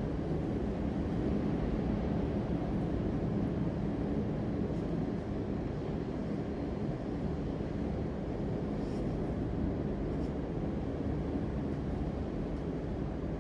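A steady low rumble of background noise that keeps an even level, without distinct knocks or pauses.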